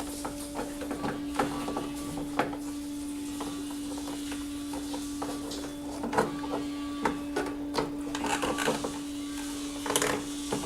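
Irregular metallic clicks and clinks of hand tools working loose bolts on a car engine, busier in the second half, over a steady hum.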